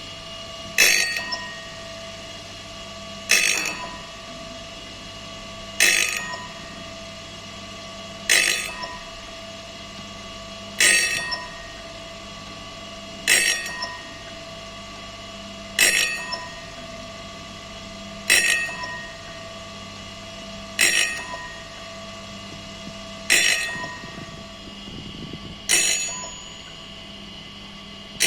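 Automatic saw-blade sharpening machine working through its cycle: a sharp metallic clank that rings briefly comes about every two and a half seconds, over a steady motor hum.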